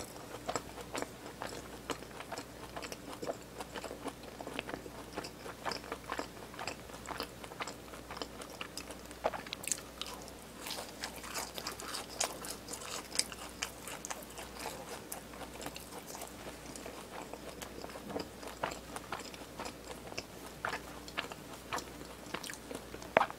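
Chewing a BHC Bburinkle cheese ball, its crisp fried crust crunching in many small, irregular crunches.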